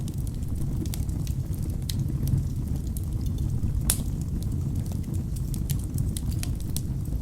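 Wood fire burning in a fireplace: a steady low rumble of the flames with frequent sharp crackles and pops from the logs, one louder pop about four seconds in.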